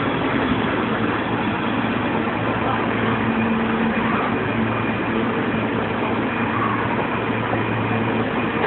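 Subway train at a station platform: a steady rumble with a low, even hum.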